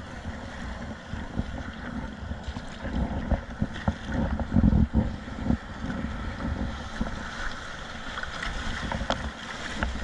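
Wind buffeting the microphone on a kayak at sea, with choppy water around the hull and a few short sharp knocks or splashes. The gusts swell about halfway through.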